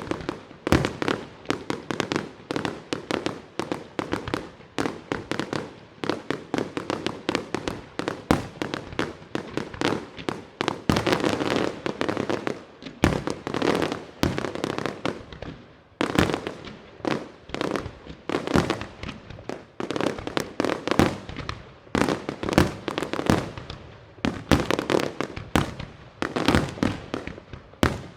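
Fireworks display: a dense, unbroken barrage of aerial shell bursts, several sharp bangs every second.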